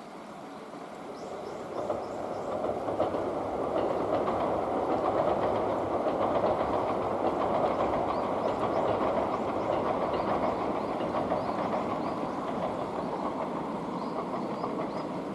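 Train passing, its wheels clicking over the rail joints. The noise swells over the first few seconds, then slowly eases off.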